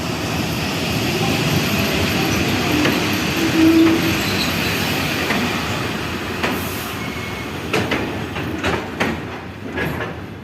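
Passenger train running into a station: a steady rumble of wheels on rail with a brief squeal about four seconds in. From the middle on, separate clacks of the wheels over rail joints sound as the train slows on arrival.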